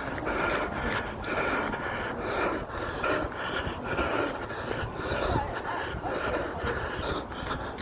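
A jogger's heavy breathing while running, panting in a steady rhythm.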